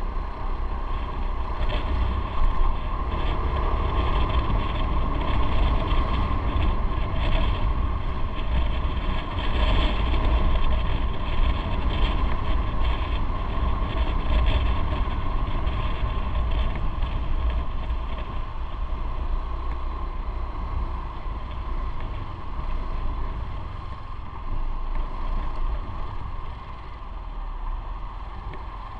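Motorcycle engine running under way with road and wind noise on the microphone, a steady low rumble that eases somewhat in the second half.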